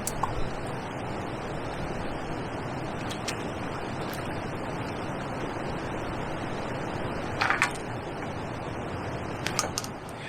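Steady rushing outdoor noise of wind and water, with a few faint clicks and a short louder burst of noise about seven and a half seconds in.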